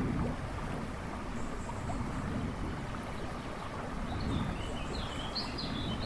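River rushing and babbling steadily, with a bird singing a quick run of chirps in the background near the end.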